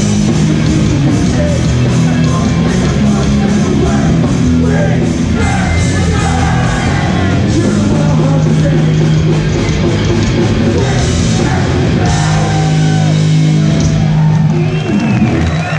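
Hardcore punk band playing live at full volume: distorted guitars, bass and fast drums under shouted vocals. The song ends just before the close, and the sound drops off.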